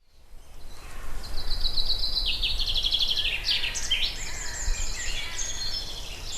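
Several songbirds singing at once, rapid trills and chirps overlapping, fading in over the first second, over a low steady background rumble.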